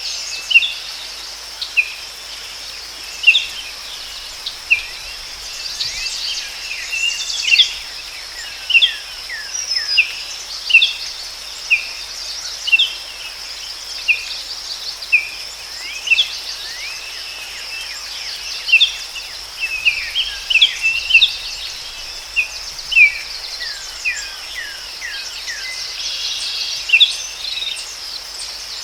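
Forest ambience: a steady high-pitched insect drone under frequent short bird chirps and calls, many of them falling in pitch, coming roughly once a second.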